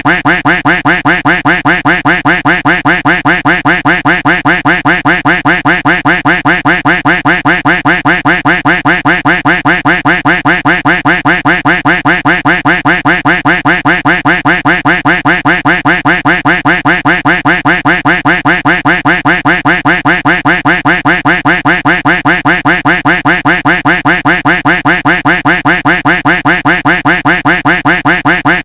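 Duck quack sound effect looped over and over at a rapid, perfectly even rate of a few quacks a second.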